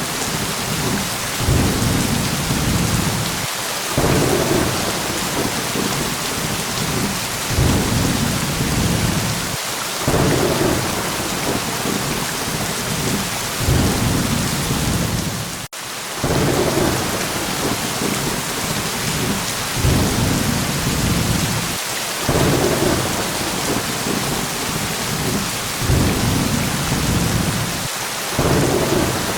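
Steady heavy rain hissing, with low rolls of thunder swelling every few seconds. There is a brief break in the sound a little past halfway.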